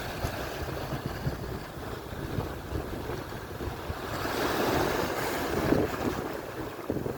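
Atlantic surf: waves breaking and washing in, swelling to a louder hissing wash about four to six seconds in, with wind buffeting the microphone.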